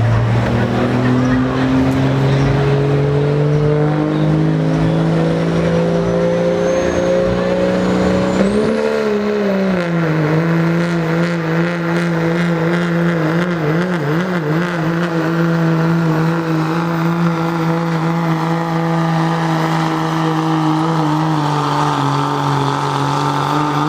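Diesel pickup truck engine under full load pulling a weight-transfer sled. Its pitch climbs steadily for about eight seconds, dips and wavers briefly, then holds steady at high revs for the rest of the run.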